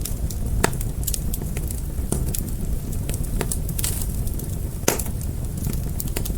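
Fire crackling: irregular sharp pops and snaps over a steady low rumble, with two louder pops, one under a second in and one about five seconds in.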